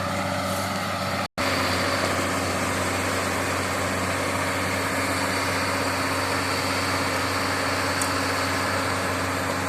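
Excavator diesel engine running steadily as the machine tracks through swamp mud. The sound cuts out completely for an instant just over a second in.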